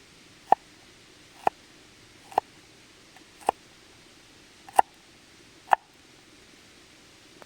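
Six sharp knocks about a second apart, each with a short ring.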